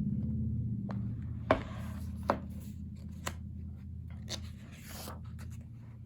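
Pages of a photobook being handled and turned: a series of light taps and paper rustles, about six in all. Under them a low hum fades away over the first few seconds.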